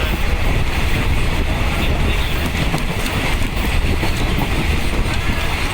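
Passenger train running along the track, heard from inside a coach: a steady, loud rumble of wheels on rail.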